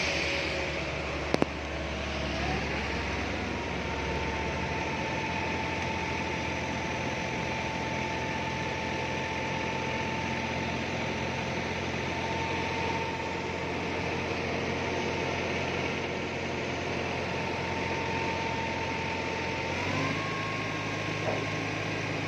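Truck's diesel engine running steadily at a low, even drone. Its pitch rises slightly about two seconds in and shifts again about twenty seconds in, with a faint click early on.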